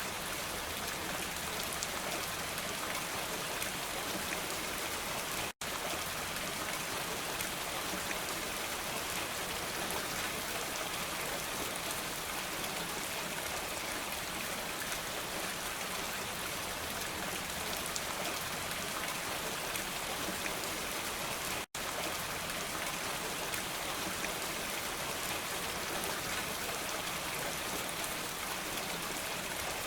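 Steady rain falling, an even hiss of many drops. It cuts out for an instant twice, about five seconds in and again about twenty-two seconds in.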